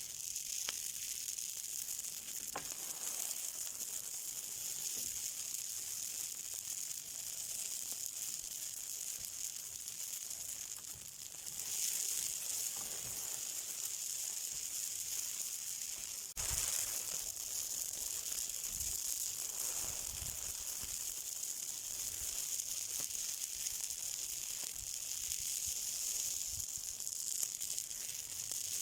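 Something burning with a steady, high sizzling hiss, slightly louder from about twelve seconds in, with one sharp click at about sixteen seconds.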